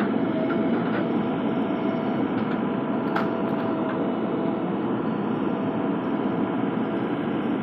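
JCB 3DX backhoe loader's diesel engine running steadily, with a faint held tone and a sharp click about three seconds in.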